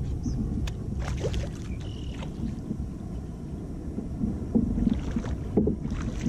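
Wind rumbling on the microphone and water sloshing around a kayak while a hooked bass is fought and brought alongside, with a few sharp knocks and splashes in the first couple of seconds.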